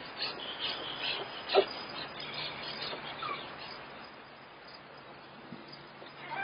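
Newborn German Shepherd puppies squeaking with many short, high-pitched cries, one louder one about a second and a half in, growing quieter in the second half.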